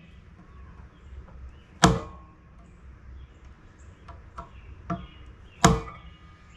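Hammer blows on a chisel driven under the staking of a door hinge pin: two hard strikes about four seconds apart, with a few lighter taps between them.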